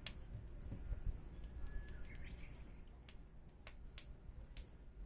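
Wood fire crackling, with sharp scattered pops over the low rumble of the flames. A brief high chirp about two seconds in.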